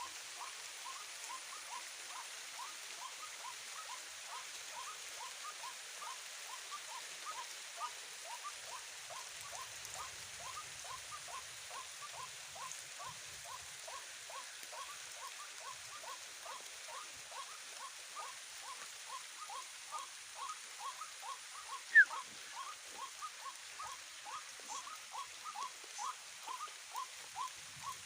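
White-breasted waterhen calls: a short rising note repeated steadily about three times a second, over the light hiss of rain. One sharp, loud crack about 22 seconds in.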